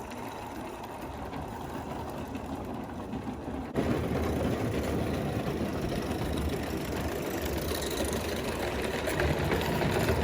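Small Mamod 16 mm scale live steam locomotive with oscillating cylinders running along its track, a steady mechanical chuffing and rattling that gets suddenly louder about four seconds in.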